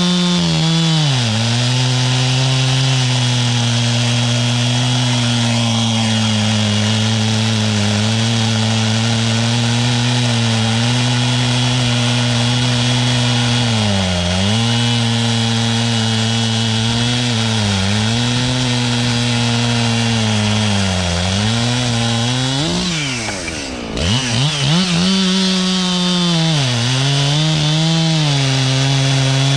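Two-stroke chainsaw held at full throttle, bucking through a log, its high engine note dipping briefly a few times as the chain loads up in the wood. Near the end it drops off the cut for a moment, then revs back up and goes on cutting.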